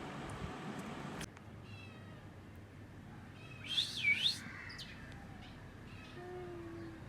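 One short, high animal call that rises and falls in pitch, about halfway through, with fainter chirps around it. Before it, a steady background noise cuts off suddenly about a second in.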